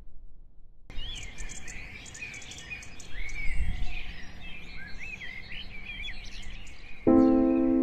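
Birds chirping and singing, many short calls overlapping, starting about a second in. Near the end, music with held chords comes in over them.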